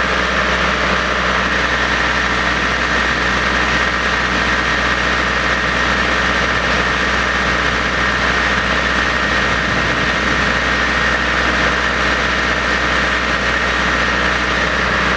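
1988 Case 760 cable plow trencher's engine running steadily at constant speed, with a steady high whine on top of it.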